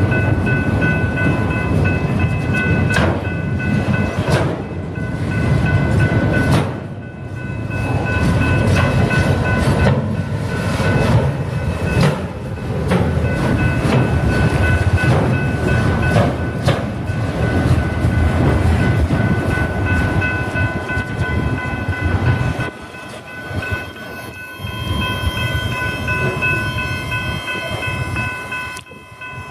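BNSF train rolling past: a steady rumble of wheels on the rails, with sharp clicks over the rail joints and a steady high ringing over it. The rumble drops away about 23 seconds in, leaving the ringing.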